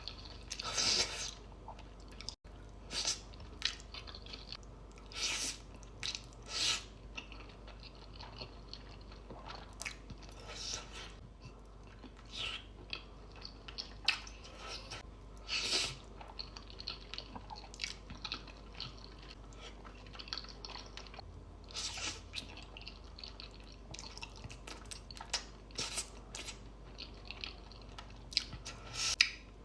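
Close-miked eating sounds: chewing with repeated short wet crunches and slurps of food at irregular intervals.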